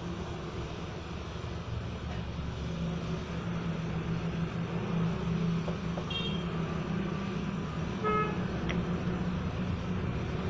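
Road traffic running steadily, with two short vehicle horn toots about six and eight seconds in.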